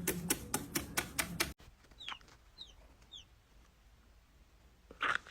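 Rapid, even tapping, about seven taps a second, cuts off abruptly after a second and a half. Then a bird gives three short high chirps that slide downward, about half a second apart, and a louder call near the end.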